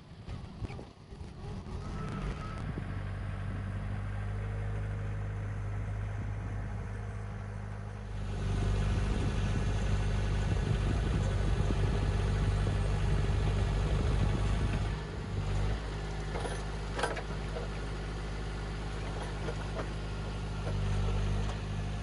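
Tractor engine running steadily, then working harder and louder from about 8 seconds in until about 15 seconds, before easing back, with a few sharp knocks soon after. It is lifting a huge cedar log, at the limit of what the tractor can handle.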